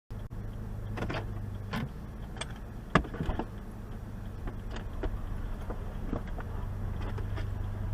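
Car cabin noise as picked up by a dashcam: a steady low engine and road hum with scattered clicks and knocks, the sharpest and loudest about three seconds in.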